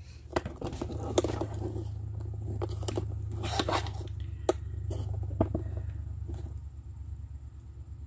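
A vehicle engine running with a steady low rumble that eases off a little near the end, with a scattering of sharp clicks and taps close by.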